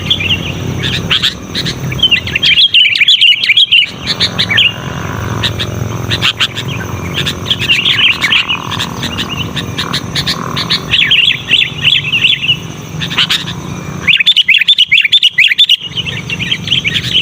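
Sooty-headed bulbul (kutilang) singing loudly in repeated bursts of rapid chattering, bubbly phrases, each a second or two long with short pauses between.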